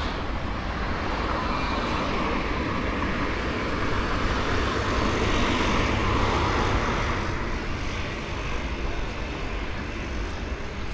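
A passing motor vehicle, an even engine-and-air noise that swells over several seconds, peaks about halfway through and then fades.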